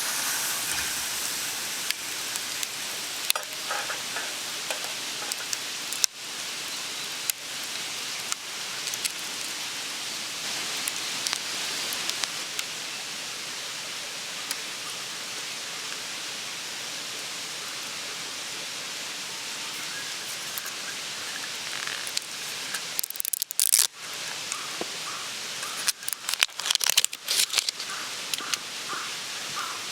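Meat sizzling as it cooks over a campfire: a steady sizzle with scattered pops, and a cluster of louder pops and crackles near the end.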